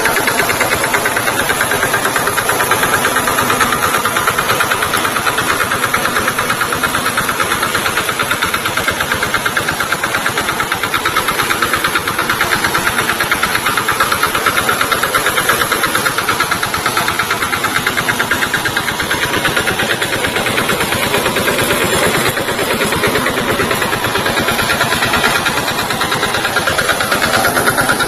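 VST Shakti tractor's small diesel engine running steadily with a fast, even beat.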